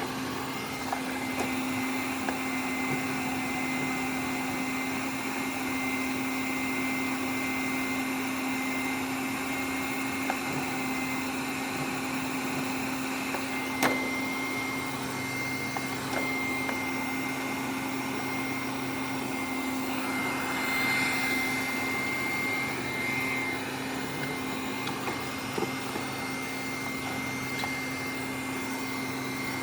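Robot vacuum cleaner running steadily, a motor hum with a thin high whine over it, a few light clicks, and one sharp knock about halfway through.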